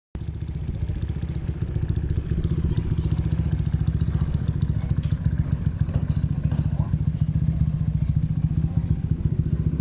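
A speedway race car engine idling steadily with a fast, even firing pulse and no revving.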